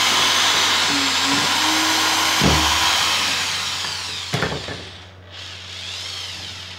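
Corded Bosch GSR 7-14 E drill/driver boring through a thick block of hard wood under heavy load, a steady motor whine under the noise of the bit cutting. About three seconds in the sound eases off and fades, with a sharp knock about a second later, as the bit comes through the wood and the drill winds down.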